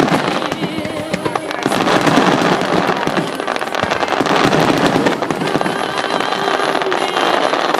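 Aerial fireworks bursting, with dense crackling and popping throughout and music playing underneath.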